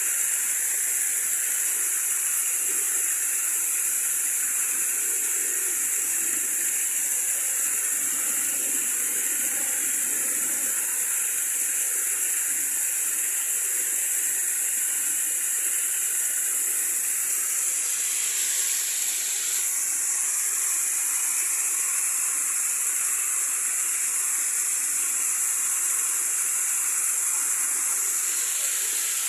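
Running water, a steady rush of flowing water with no breaks.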